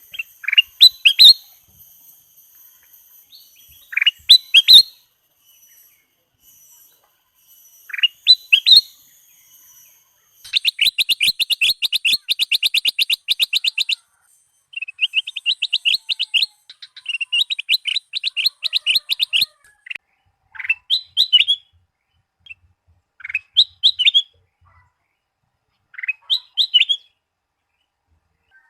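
Kutilang Emas bulbul singing: clusters of short, quick rising chirps. Twice in the middle these run into fast, even trills of rapidly repeated notes lasting a few seconds each.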